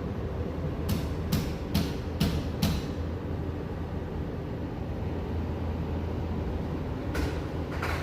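Ford Escape 2.0L four-cylinder engine running steadily with a low hum, with a quick series of five short hissing bursts about a second in and two more near the end.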